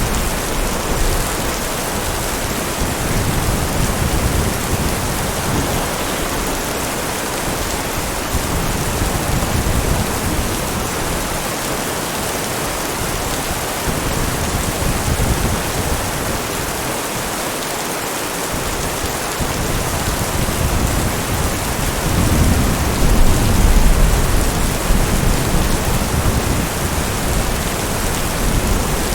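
Steady heavy rain, with a low rumble of thunder that comes and goes and swells most about three quarters of the way through.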